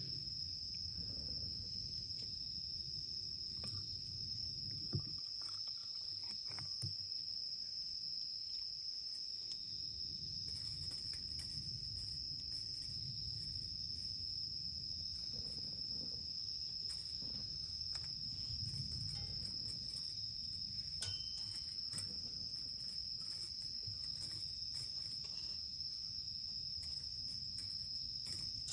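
Insect chorus of crickets, one steady high-pitched trill, with a low rumble and scattered faint clicks underneath.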